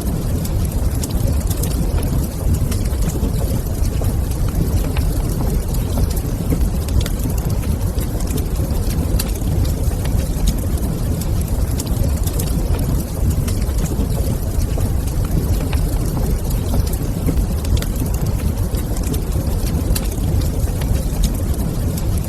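Wood fire burning in a fireplace: a steady low rumble with frequent small sharp crackles and pops scattered through it.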